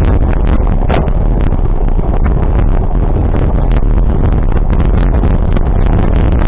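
A vehicle travelling along a road: a loud, steady low rumble with a dense run of short clicks and knocks.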